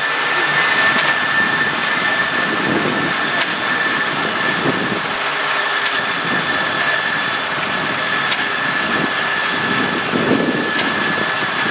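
Sawmill machinery running steadily, with a constant high-pitched whine over a noisy mechanical rumble and a few light clicks.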